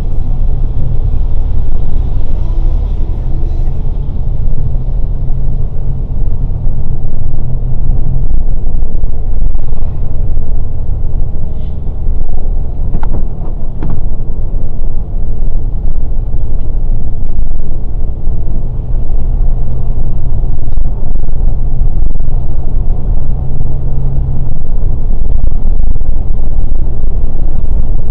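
Scania K410 bus engine running under way, a loud, steady low rumble.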